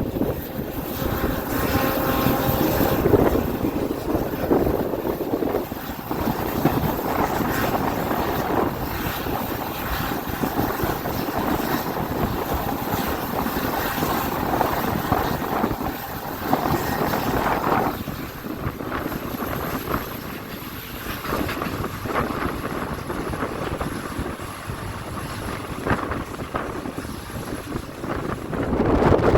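Passenger train running along the line: a steady rumble and rattle of the coaches on the track, easing off a little about two-thirds of the way through.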